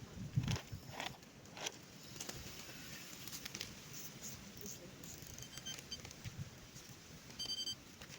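Fishing tackle being handled during setup: a few sharp knocks and clicks in the first couple of seconds, then faint scattered ticks. Near the end come a few short high-pitched beeps.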